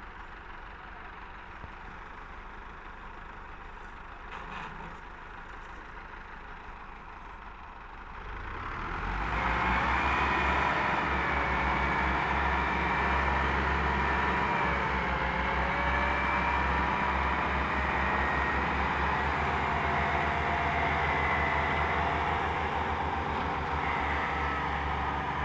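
Heavy truck engine idling, then running louder from about eight seconds in with a steady, slightly wavering whine over the engine note.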